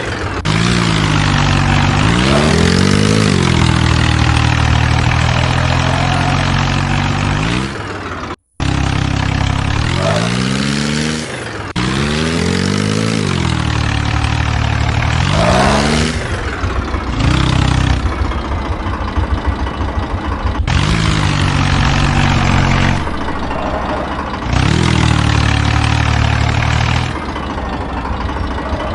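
Modified tractor engine revving up and dropping back repeatedly, between spells of idling. The sound changes abruptly several times, and drops out briefly once, as separate clips are cut together.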